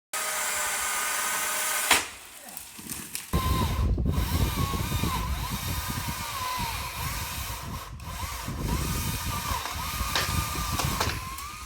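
Electric chainsaw cutting branches; its motor whine rises and dips again and again as the chain bites, over a rough low rumble.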